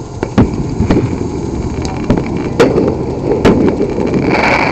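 Fireworks going off: a string of sharp bangs and cracks over a low rumble, with a brief hiss near the end.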